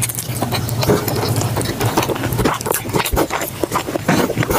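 Wet chewing and lip smacking close to the microphone as a mouthful of spaghetti and saucy meat is eaten by hand: a rapid, irregular run of sticky mouth clicks.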